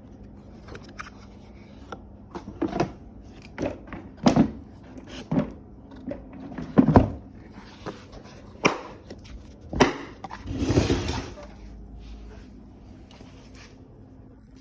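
Irregular knocks, clicks and a short scrape about ten seconds in, as a Kärcher vacuum cleaner is handled and turned about while switched off.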